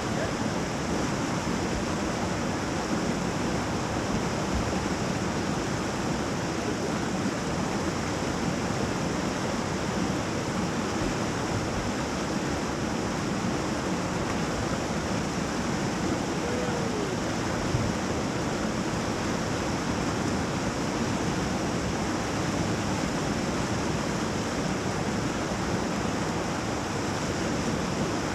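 Whitewater rapid on the Youghiogheny River rushing steadily.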